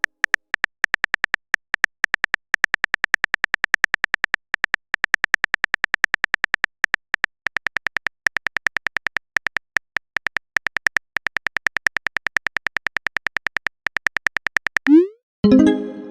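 Rapid string of short, bright clicks: the keyboard-typing sound effect of a texting-story chat app as a message is typed out. About 15 seconds in, it stops and a short rising swoop is followed by a brief pitched chime, the message-sent alert.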